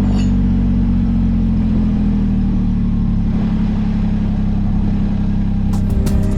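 Daihatsu Hijet Jumbo's engine running through a Rosso Modello COLBASSO aftermarket muffler, its revs falling back just as it begins and then idling steadily. Music comes in near the end.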